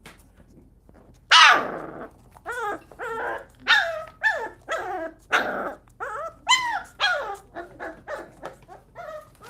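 Puppies barking and growling as they play-fight: one loud harsh bark about a second in, then a quick run of short, high yaps that thin out toward the end.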